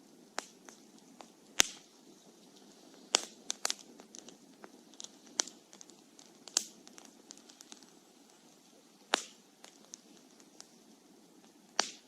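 Wood fire burning: a low steady hiss with irregular crackles and sharp pops from the burning logs, half a dozen of them loud.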